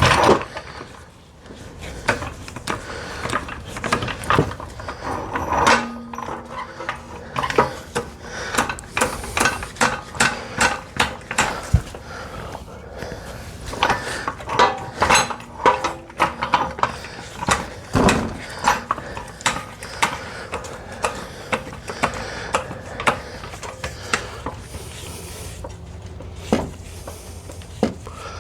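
Metal tools and parts clinking and knocking irregularly, many sharp clanks with short ringing, as hand work goes on under a car's engine bay.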